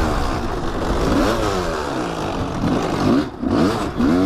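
Kawasaki dirt bike engine revving up and down as it is ridden through a trail turn, its pitch rising and falling several times. The throttle is briefly chopped twice near the end before the engine picks up again.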